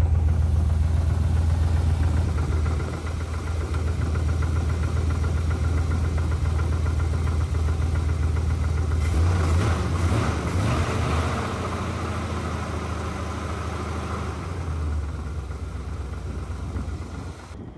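1972 Chevrolet Monte Carlo's V8 engine idling steadily with the hood up. The engine note picks up briefly about nine seconds in, then settles lower again a few seconds later.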